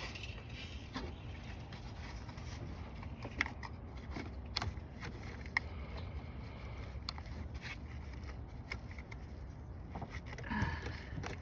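Scattered light clicks and taps, spaced irregularly, from hands and tools handling car battery hardware, over a steady low background rumble.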